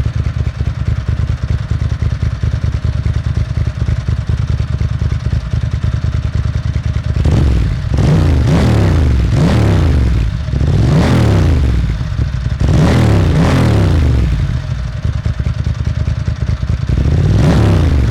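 2002 Ducati Monster S4's 916 cc V-twin breathing through Spark aftermarket mufflers, idling with a lumpy, pulsing beat. From about seven seconds in it is blipped up repeatedly, each rev rising and falling back toward idle.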